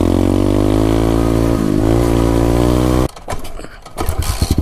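SSR 125 pit bike's single-cylinder four-stroke engine accelerating under throttle, its pitch climbing with a short dip partway through as it shifts. About three seconds in it cuts off suddenly, and after a second a choppier, pulsing engine sound starts.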